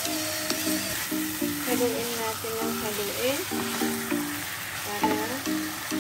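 Chicken pieces frying and sizzling in a pan while being stirred and turned with a wooden spatula, over background music.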